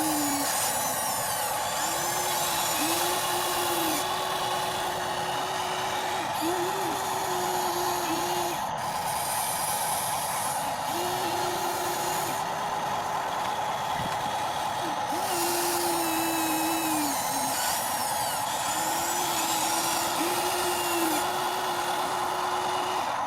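Small electric motors of radio-controlled toy construction machines whirring over a steady hum, winding up and down in repeated spells of a second or two.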